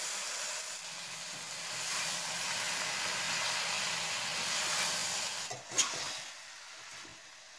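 Yogurt-marinated chicken sizzling as it fries in hot oil with onions in a kadai, stirred with a metal slotted spatula. A single clink of the spatula against the pan comes about five and a half seconds in, and the sizzle drops lower near the end.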